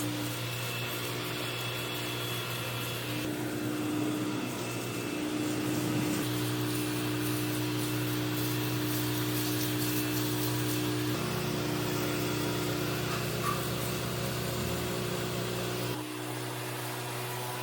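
Pressure washer running steadily, a continuous machine hum; its tone shifts about eleven seconds in and it gets quieter near the end.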